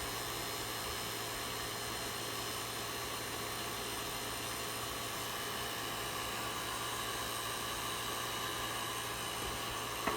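Refrigeration vacuum pump running steadily, a constant hum with a hiss over it, as it evacuates an air conditioner's line set and indoor coil.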